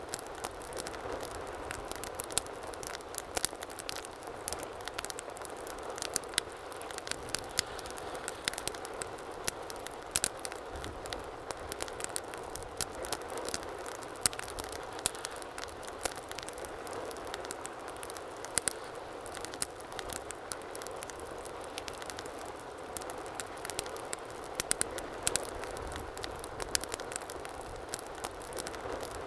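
Wood fire burning in a fireplace: a steady low hiss with frequent irregular sharp crackles and pops throughout.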